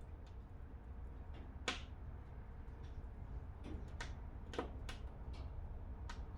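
Wood fire in a fireplace crackling: scattered sharp pops, the loudest about a second and a half in and again around the middle, over a low steady rumble.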